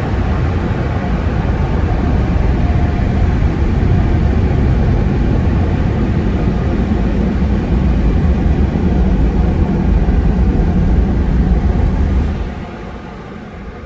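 Loud, steady rushing and rumble heard from inside a car with a window rolled down, most of it deep and low; it falls away sharply about twelve seconds in.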